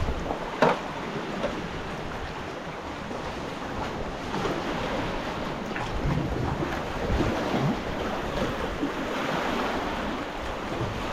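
Sea water splashing and sloshing around a sea kayak under way, with wind buffeting the microphone. A brief sharp sound stands out well under a second in.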